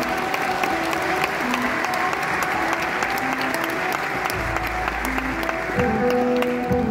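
Audience applauding over held keyboard notes from the band; a deep bass note comes in about four seconds in.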